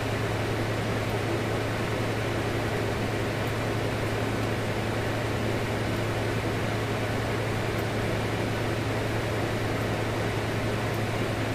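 Steady low hum under an even hiss, unchanging throughout: constant machine-like room noise such as a running fan.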